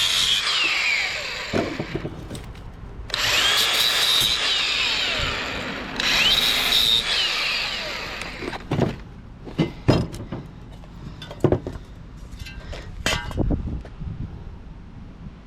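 Power saw cutting into an electric motor's metal casing in three runs, its motor whine climbing, holding and winding down each time. A string of sharp metal knocks and clanks follows in the second half.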